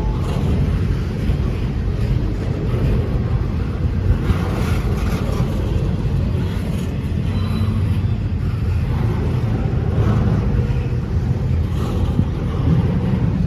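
A train rolling past with a steady, heavy low rumble, partly buffeted by wind on the microphone.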